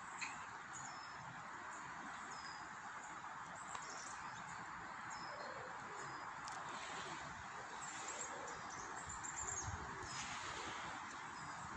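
Small birds chirping in short high notes, a string of single chirps and then a quicker burst of high twittering about eight seconds in, over a steady rushing background noise.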